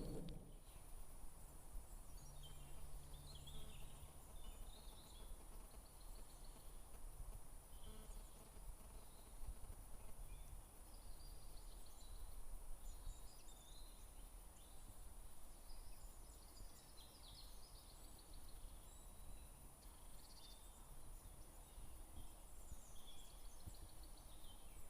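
Faint woodland birdsong: scattered small chirps and short phrases throughout, over a low steady background of outdoor noise.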